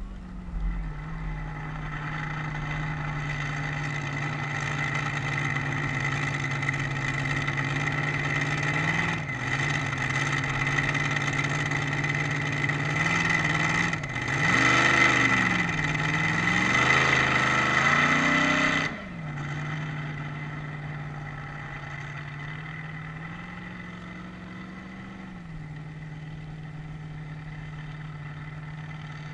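A vehicle engine running at a steady fast idle with a high whine over it. It is revved up and down several times about halfway through, then drops back and runs on more quietly.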